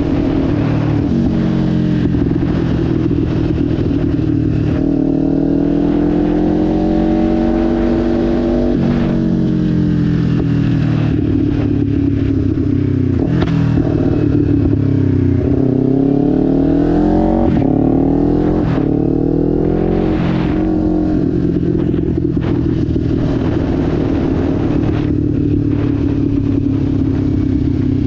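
Kawasaki Ninja 500's parallel-twin engine on the move, first running steadily, then revving up and dropping back several times through the middle as it accelerates through gear changes, then settling to a steady cruise.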